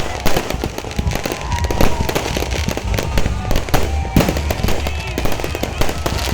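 Fireworks going off in a dense barrage: many sharp bangs and crackles in quick succession over a steady low rumble.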